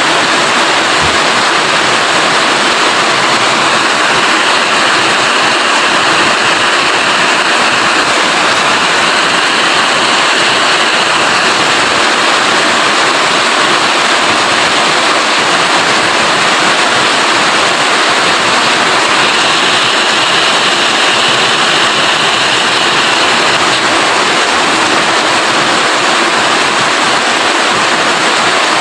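Steady heavy rain falling, a dense, even hiss with no breaks.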